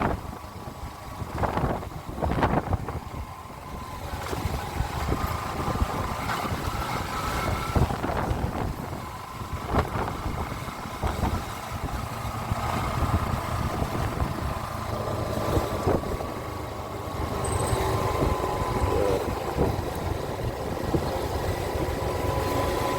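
Small-displacement motorcycle engine running steadily while riding, with wind rumbling on the microphone underneath.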